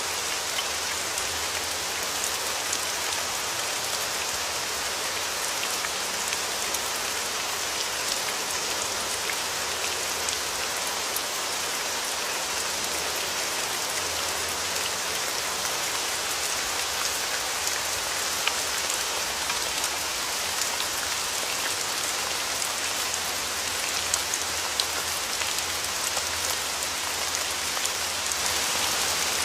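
Steady rain falling, an even hiss with many individual drops ticking on a surface, a few sharper drop hits about three quarters of the way through.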